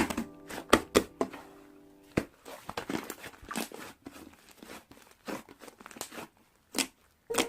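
Irregular crinkling and crackling with sharp clicks, like a wrapper or packaging being handled, while the end of a piano piece fades out in the first second or so.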